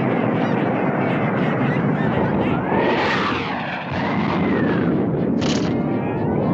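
Cartoon sound effects: a steady rushing noise with whistle-like tones that rise and fall, and a short hiss about five and a half seconds in.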